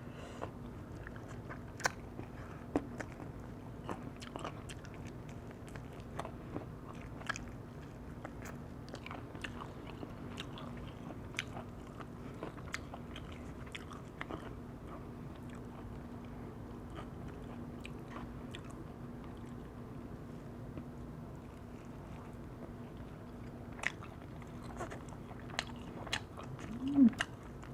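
Close-miked eating of firewood-roasted chicken: chewing and biting, with many small mouth clicks and smacks scattered throughout. A steady low hum runs underneath. A short vocal sound comes near the end.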